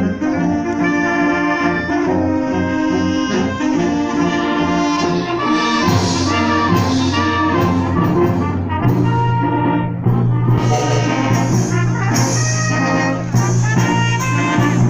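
Symphonic wind band playing, with brass leading in held chords. About six seconds in, percussion strokes join, and a low bass note is held under the band in the second half.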